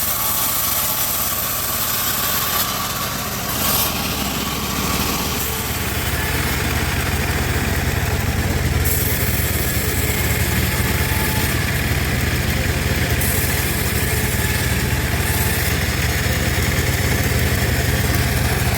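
Homemade bandsaw mill running, a steady mechanical drone; the low hum grows stronger about six seconds in.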